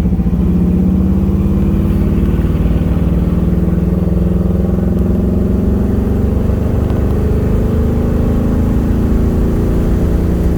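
1978 Pontiac Trans Am's V8 engine running as the car drives, heard from inside the cabin, its pitch rising slowly as the car gathers speed.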